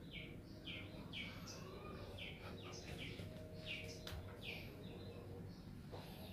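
A bird chirping over and over in short falling notes, about two a second.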